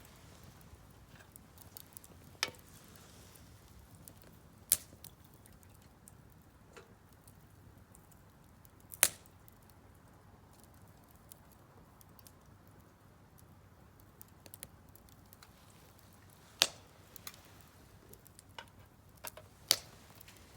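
Firewood burning in a Solo Stove Campfire fire pit, crackling with scattered small ticks and five loud single pops over a faint steady hiss.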